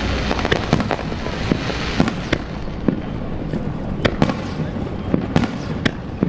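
Fireworks display: a rapid, irregular series of sharp bangs and crackles, several a second, over a continuous low rumble of bursting shells.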